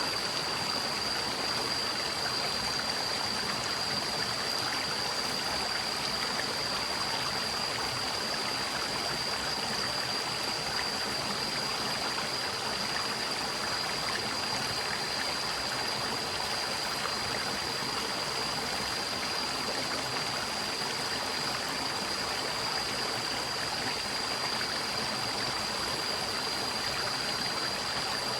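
Forest stream flowing and babbling steadily, with a faint, steady high-pitched whine alongside it.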